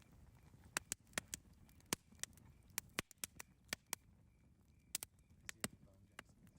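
Campfire crackling: irregular sharp pops and snaps, a couple of times a second, over a faint low rumble of the burning fire.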